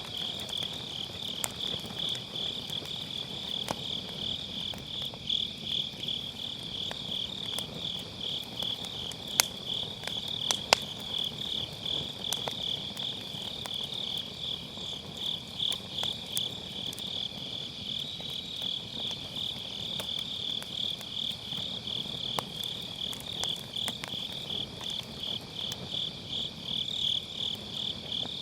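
Crickets chirping steadily in a quick, even pulsing rhythm, over the crackle of a wood fire burning in a round fire pit, with two sharper pops from the fire about nine and eleven seconds in.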